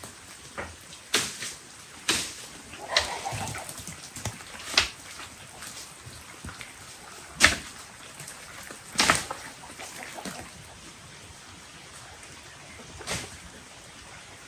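Steady rain with sharp, irregular knocks of heavy drops landing close by, about seven over the span, and a short animal call about three seconds in.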